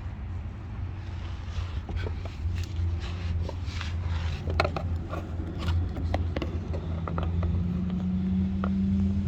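2014 Audi Q5's turbocharged 2.0-litre four-cylinder engine idling with a steady low hum, with scattered clicks and taps. A faint steady tone above the hum grows stronger near the end.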